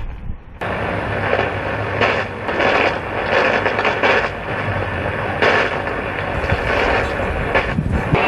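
Thunderstorm: thunder rumbling in a string of swells, starting abruptly just after the beginning.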